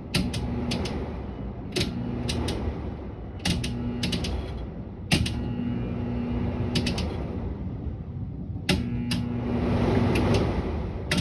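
Window air conditioner that won't start: a steady electrical hum that keeps switching on and off, with sharp clicks each time it changes.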